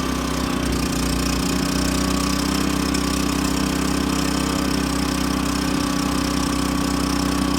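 Champion 3400-watt dual fuel inverter generator's engine running steadily on gasoline at half choke, freshly started for its first run.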